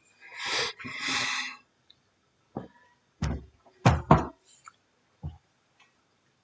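A short breathy rustle, then a handful of dull knocks and thumps, the loudest two close together a little after the middle.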